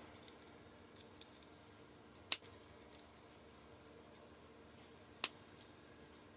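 A hand tool prying at the small metal shield inside a microwave turntable motor: two sharp clicks about three seconds apart, with a few faint ticks between.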